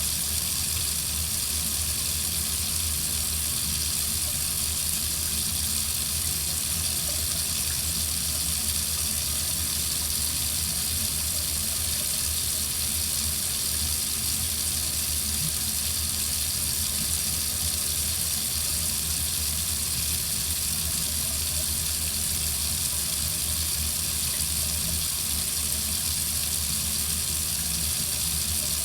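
Water running steadily from a faucet into a sink, a continuous even splashing rush with a low hum beneath it.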